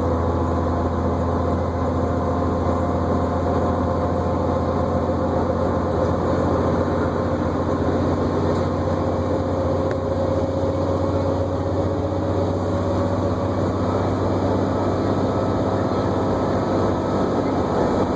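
New Flyer D40LFR diesel transit bus under way, heard from on board: a steady low engine drone with a thin whine over it. The whine's pitch rises slightly about halfway through.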